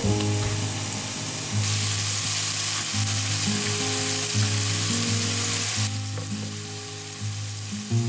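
Ground beef patties sizzling as they fry in a skillet, the sizzle loudest from about one and a half seconds in until about six seconds, over background music.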